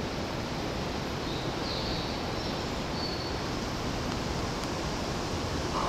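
JR electric commuter train moving slowly through the station: a steady rumble of wheels on the rails and running gear, with a few faint high tones about two seconds in.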